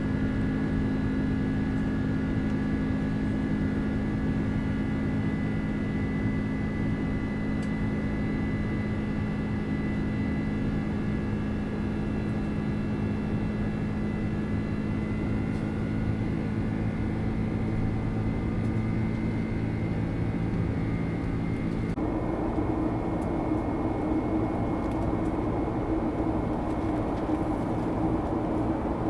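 Airliner engines running: a steady drone with several whining tones that slowly shift in pitch. The sound changes abruptly about three-quarters of the way through, with the whines dropping away and a lower hum coming up.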